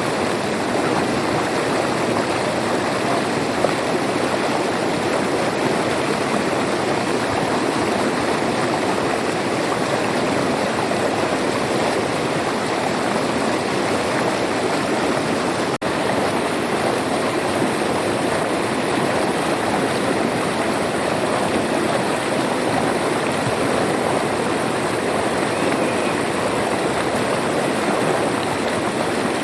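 River water flowing steadily over rocks, an even rushing with no change, broken only by a momentary dropout a little past the middle.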